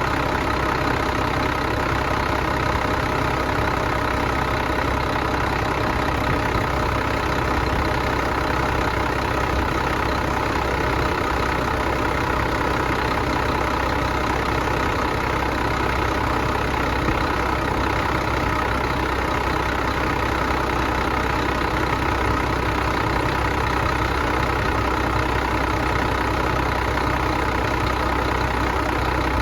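Engine running at a steady, unchanging speed.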